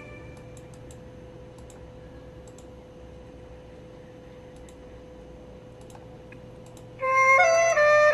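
Quiet break between songs: a faint steady hum with a few scattered clusters of light clicks. About seven seconds in, a melodic instrumental music intro starts abruptly.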